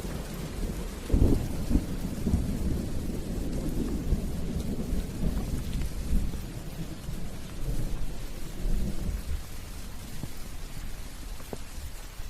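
Steady rain falling, with a roll of thunder that rumbles in about a second in and gradually fades.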